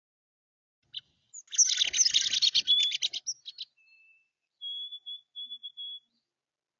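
Songbird calling at a feeder: a loud, rapid chattering burst lasting about two seconds, then four short clear whistled notes on one pitch.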